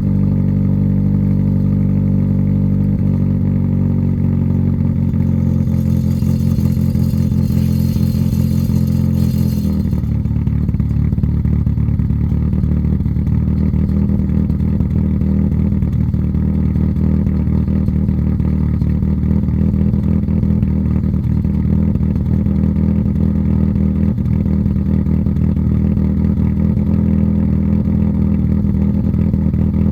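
Honda D16 SOHC inline-four engine idling after a cold start. The steady idle note changes and turns rougher about ten seconds in, with a faint hiss over it for a few seconds just before.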